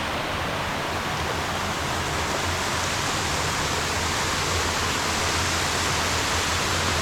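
Steady rush of water pouring over a dam wall, a man-made waterfall.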